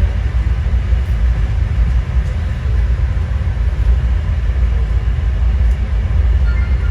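Steady, loud low rumble of a moving passenger train, heard from on board.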